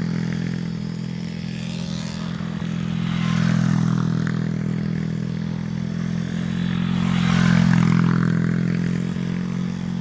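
Pit bike's small single-cylinder engine running as it is ridden round, growing louder twice as it comes close, about three and seven seconds in.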